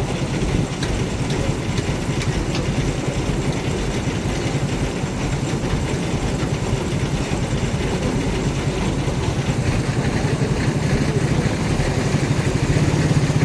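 A heavy vehicle engine running steadily with a low, pulsing rumble that grows a little louder near the end.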